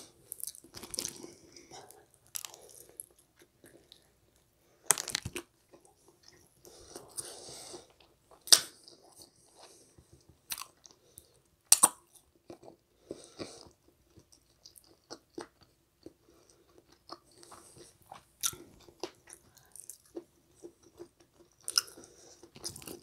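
Close-miked chewing of pizza: soft, wet mouth sounds with scattered crunches and clicks, a few of them sharper and louder.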